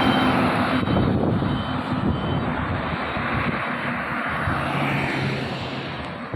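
A heavy diesel truck's engine running as it passes close by, its noise slowly fading as it moves away.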